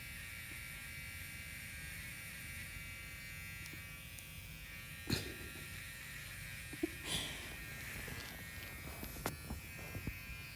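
A steady electrical buzz with a few short knocks and clicks, the loudest about five seconds in and others near seven and nine to ten seconds.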